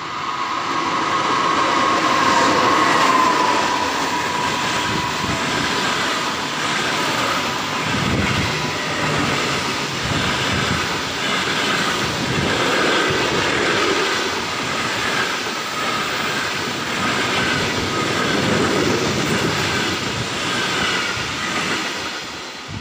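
A passenger train hauled by an EP2K diesel locomotive passes at speed. A whine from the locomotive drops slightly in pitch as it goes by in the first few seconds, then the coaches clatter over the rail joints with a steady rush and repeated knocks.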